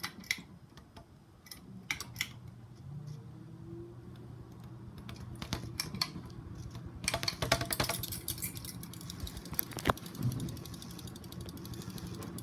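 SMC Emperor ceiling fan speeding up on its high setting: a low, steady motor hum that grows louder, with a broad hiss joining in about seven seconds in and scattered sharp clicks throughout.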